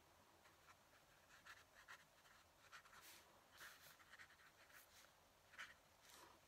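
Fountain pen nib scratching across paper in short, irregular strokes, faint and close, with a slightly louder stroke near the end.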